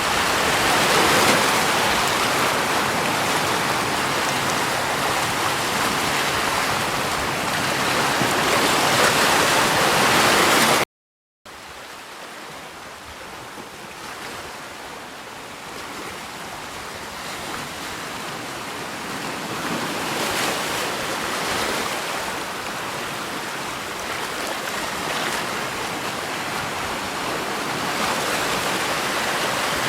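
Steady rushing water. About eleven seconds in it cuts to a brief silence, then a softer water sound fades in and slowly grows louder.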